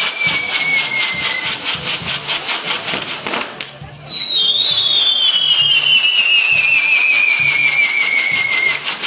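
Castillo fireworks burning: a shrill whistle slides slowly down in pitch over a rapid, even crackle of sparks. The first whistle dies out about a second and a half in, and a second starts higher about four seconds in and falls until near the end.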